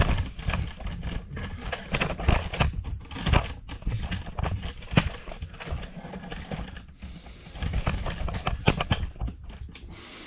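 Handling noise: a string of irregular knocks, bumps and rubbing close to the microphone, with low rumble, as the camera is shifted and repositioned lower.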